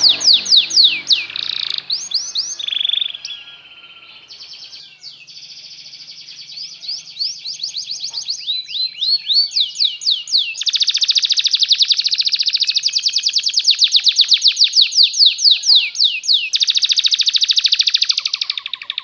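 Canary singing: long runs of fast, rapidly repeated notes (trills and rolls). The song softens about three to five seconds in, then comes back in loud unbroken trills from about ten seconds in.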